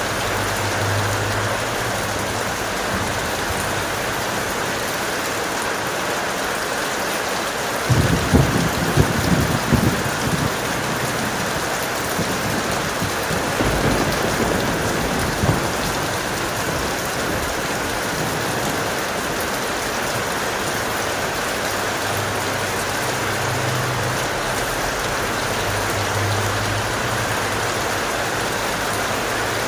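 Steady heavy rain hissing, with a burst of thunder about eight seconds in that rumbles on for a couple of seconds, and a fainter roll of thunder a few seconds later.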